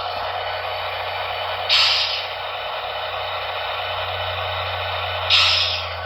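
Sound decoder of an HO-scale SD70ACe model locomotive playing a diesel engine idling through its small onboard speaker, thin and hissy, with two short sharp hisses of air about two seconds in and near the end.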